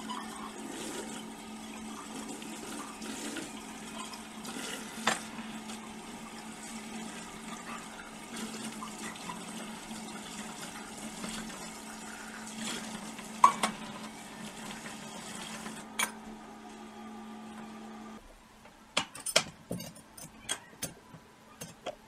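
Running water with a steady low hum that cuts off suddenly about eighteen seconds in, followed by a scatter of light clicks and knocks.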